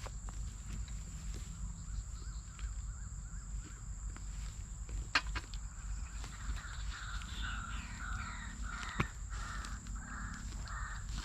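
Crow cawing: a fast run of short, repeated calls in the second half, after a fainter wavering call earlier on. Two sharp clicks are heard, over a steady high whine and a low outdoor rumble.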